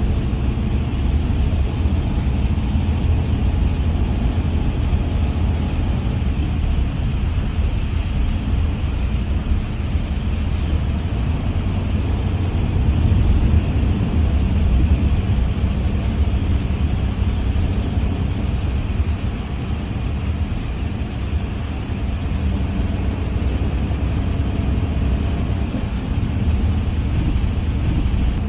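Steady ride noise inside a moving vehicle: a constant low rumble with an even hiss above it, unchanging throughout.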